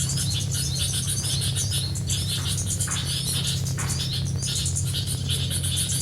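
Small birds chirping: short high chirps repeating about twice a second, over background music with a steady low drone.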